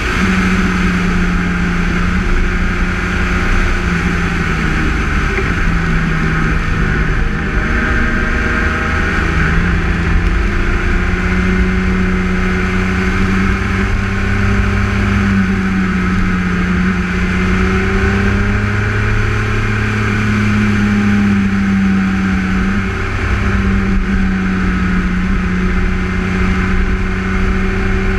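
BMW K1600 GTL's inline-six engine running under way, its note rising and falling several times as the rider works the throttle through the bends, over a steady rush of wind and road noise.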